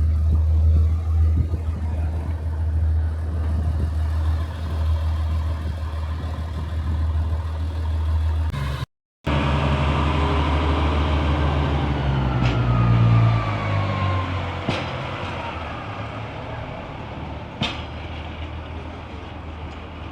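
A steady low rumble. After a brief cut, an engine passes by, its pitch falling as it goes and then fading away, with three sharp clicks.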